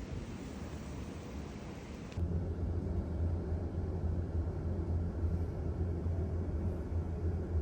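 Steady noisy rumble with hiss. About two seconds in it changes abruptly to a deeper, heavier hum with less hiss.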